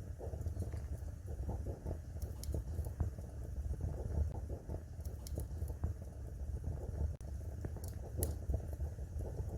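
Wood fire burning in a fireplace: a low steady rumble of flames with scattered sharp crackles and pops, a few louder snaps about two and a half seconds in and again near the end.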